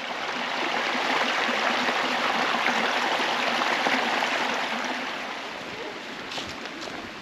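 Creek water rushing over rocks, a steady rush that grows louder over the first second and eases off from about five seconds in.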